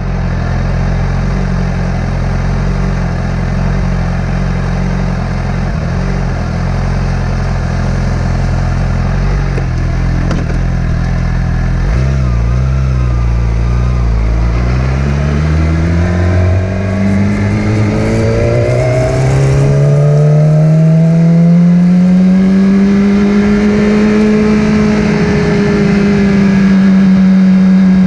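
Motorcycle engine running steadily at low revs. About twelve seconds in, its pitch climbs slowly and smoothly for about ten seconds as it speeds up, then holds at the higher pitch.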